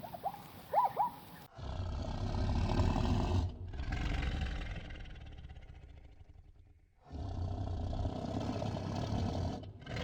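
A large animal roaring: three long, rough roars in a row, each trailing off, with a fourth beginning right at the end.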